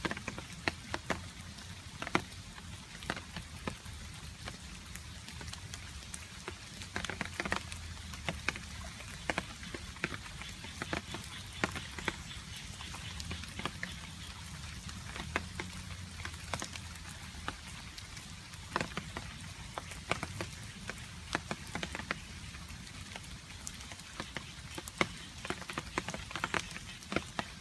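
Rain falling, with water drops dripping in irregular sharp taps over a steady patter.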